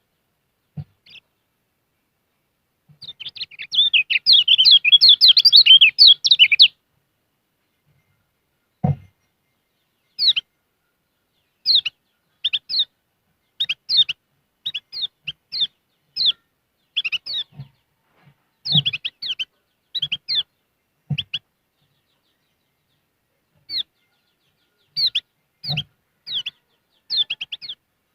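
Kecial kuning (white-eye) singing: a rapid, high twittering phrase about three seconds long, then short, sharp chirps every second or so. A few soft low knocks are heard among them.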